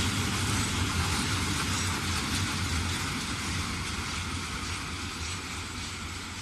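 A train passing, a steady rumble with a low hum that slowly fades.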